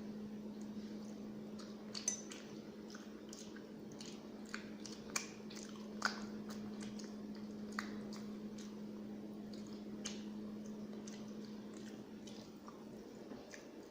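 Close-up eating sounds of rice and curry: wet squishing and chewing with scattered small clicks, a few sharper, over a steady low hum that stops near the end.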